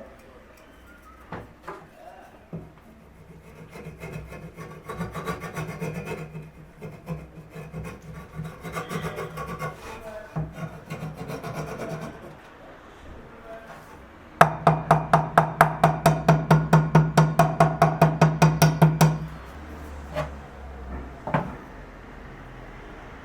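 Hand filing on wood: irregular scraping strokes at first, then a run of quick, even strokes, about five or six a second, for some four seconds. Near the end come two single knocks.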